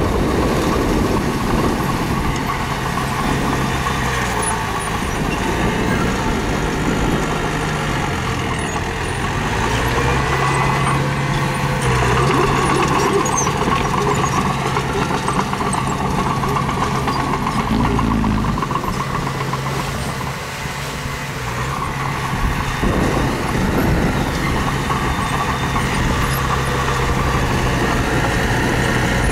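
Diesel engine of earthmoving machinery running steadily, its note stepping up and down a few times as the load changes.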